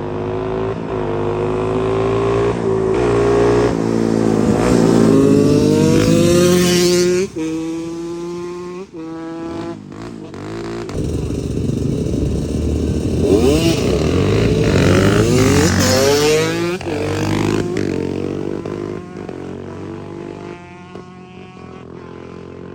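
Dirt bike engine revving under acceleration. Its pitch climbs and drops sharply twice near the middle as it shifts up through the gears, then rises and falls several more times.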